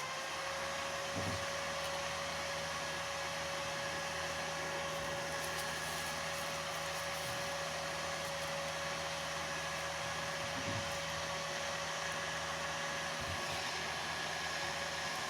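Cooling fan of a welding inverter spinning up as the unit is switched on, its whine rising and settling within the first second, then running steadily with a hum and airy hiss.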